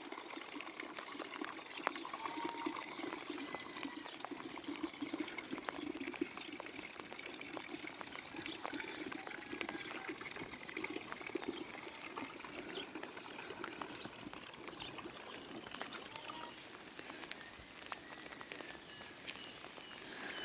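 Rain falling steadily, with water pouring and trickling and many small drips ticking on surfaces.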